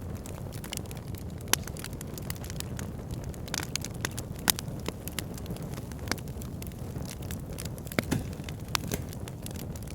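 Backyard fire pit burning, crackling with frequent sharp pops over a steady low rush of flame noise; the loudest pops come about a second and a half in, midway and about eight seconds in.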